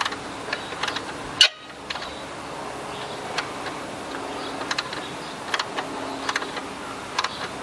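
Scattered short metallic clicks of a wrench turning the alternator belt tensioner bolt, with one sharp loud click about one and a half seconds in, over a faint steady hum.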